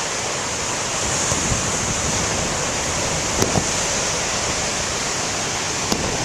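Large ocean waves breaking on the shore: a steady rush of surf, with wind on the microphone. Two brief clicks, about halfway and near the end.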